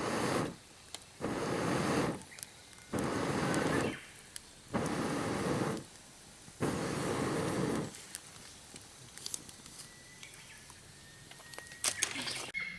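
Campfire with air blown into it in six long, even puffs, each about a second, then quieter crackling with scattered clicks and a faint thin whistle near the end.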